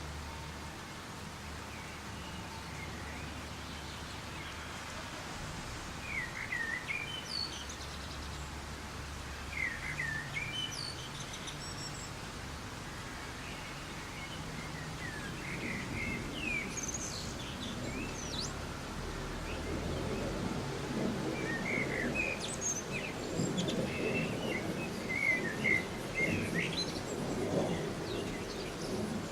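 Soft rain falling steadily with songbirds chirping, short quick sweeping calls that start about six seconds in and come more often toward the end. A closer, coarser patter builds up in the second half.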